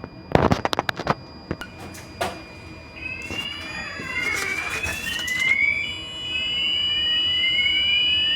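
A few sharp clicks and knocks in the first second, then an electronic alarm sounds about three seconds in: repeated rising high tones that overlap, settling into a steady high tone with more rising sweeps on top.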